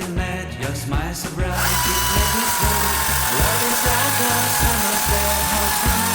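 Electric power tool motor starting about one and a half seconds in and running steadily with a high whine and a hiss, over background music with a steady beat.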